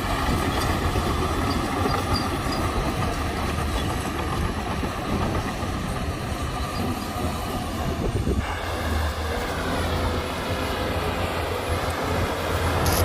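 Shantui crawler bulldozer working: its diesel engine running under load, with the clatter of its steel tracks and high squealing tones that rise and fall. A sudden change in the sound about eight seconds in.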